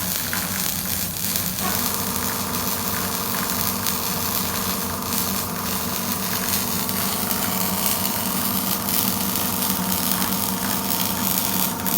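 Used Japanese single-phase 220 V welding machine running: a steady electrical hum over a loud hiss, with a higher steady tone joining about two seconds in.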